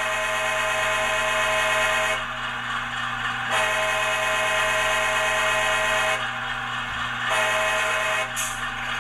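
Model diesel locomotive horn from the ESU LokSound decoder in an HO scale ScaleTrains AC4400CW, played through the model's small speaker over the steady idle of its recorded prime mover. One long blast ends about two seconds in, a second long blast runs from about three and a half to six seconds, and a short blast comes near the end.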